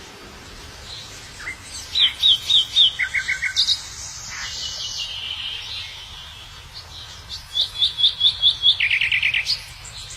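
Birds singing: quick runs of four to six repeated high whistled notes, a burst about two seconds in and another near the end, with quieter calls between.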